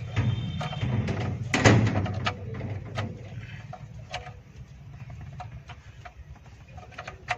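Scattered clicks and knocks, with a louder scraping clatter between one and two seconds in, over a steady low hum.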